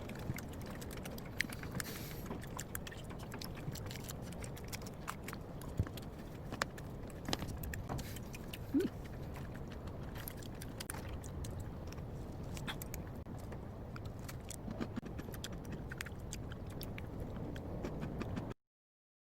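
Scattered light clicks and small clinks over a steady low hum, cutting off abruptly near the end.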